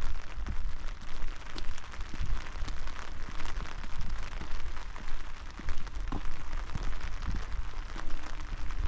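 Steady rain falling, with many close, separate drop hits over a constant hiss and a low rumble that swells and fades unevenly.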